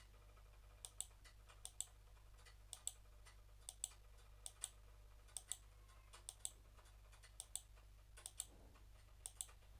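Computer mouse clicking, about once a second, each click a quick press-and-release pair, as points of a shape are placed by hand, over a faint steady electrical hum.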